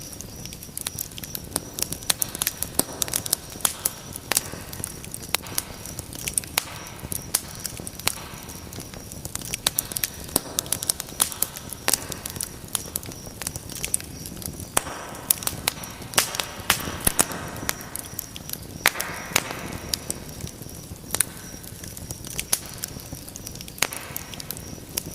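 Wood fire burning in a fireplace, crackling steadily with frequent sharp pops and a couple of brief hisses.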